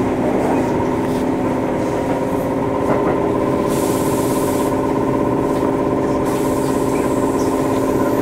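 Tobu Railway electric train running at a steady speed: an even hum of traction motors and gears over the rumble of wheels on rail, with a hiss in the highs about halfway through and again near the end.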